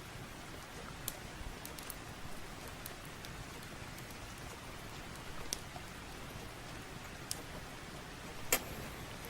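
Steady rain, with a few sharp pops and crackles from a wood fire in a fireplace, the loudest about eight and a half seconds in.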